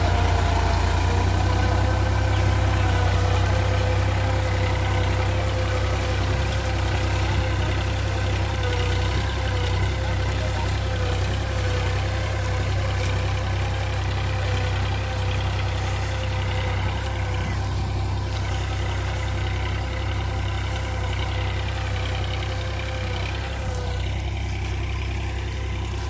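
Massey Ferguson 7250 DI tractor's diesel engine running steadily after repair, growing slightly fainter over the stretch.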